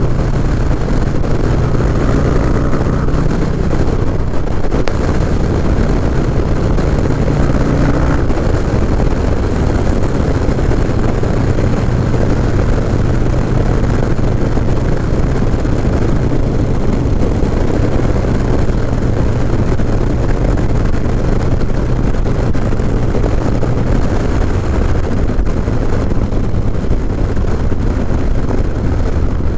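Harley-Davidson Low Rider S's 114-cubic-inch Milwaukee-Eight V-twin running steadily at road cruising speed, heard from the rider's seat with wind and road noise.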